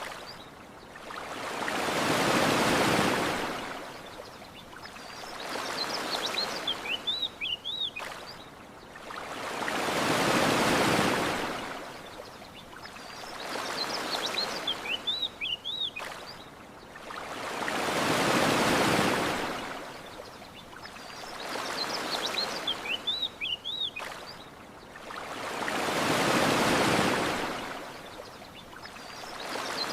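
Ocean waves washing onto a shore, each swelling and fading in a slow rhythm, with a larger wave about every eight seconds. Small birds chirp in the lulls between the waves.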